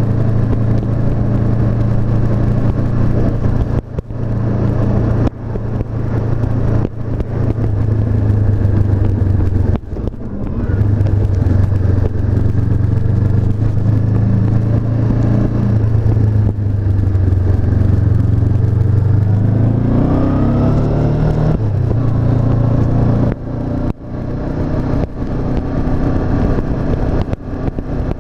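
Honda CB500F's parallel-twin engine running on the road, its note steady but dipping briefly a few times. About two-thirds of the way in, the revs climb in a rising note, then fall away sharply.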